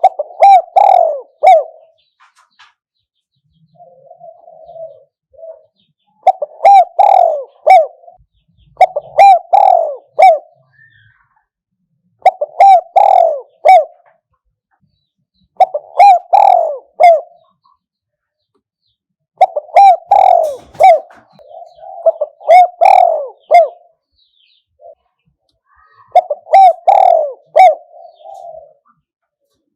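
Spotted dove cooing in loud repeated phrases of three or four coos, each phrase about two seconds long and coming every few seconds, with one fainter phrase about four seconds in. It is the ringing 'kuk-hoi' call style sung by a decoy dove to draw in wild doves.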